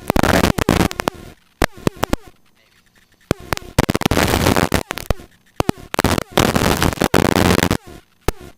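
Bursts of static hiss from the helicopter's intercom/radio audio, each lasting about a second and cutting in and out abruptly, with sharp clicks between them, typical of a transmit key or squelch opening and closing.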